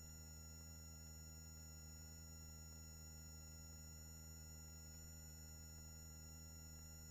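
Near silence: a faint steady electrical hum made of several fixed tones, like a headset intercom line with its microphones gated shut.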